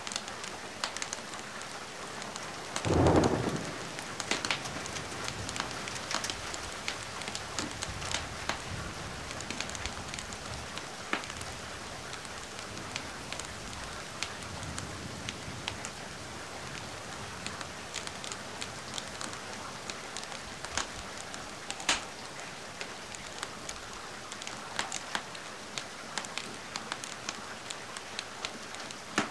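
Steady rain with a wood fire crackling: sharp pops and snaps scattered over the hiss. A brief loud low boom about three seconds in.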